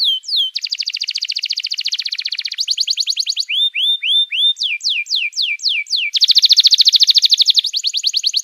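Songbird song from a birdsong training recording: runs of sharp, falling whistled notes, several a second, alternating with fast, even trills. The loudest trill comes about six seconds in.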